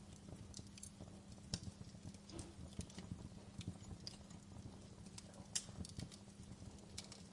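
Wood fire crackling in a fireplace: irregular small pops and snaps over a low rumble, with two sharper pops, one about a second and a half in and one about five and a half seconds in.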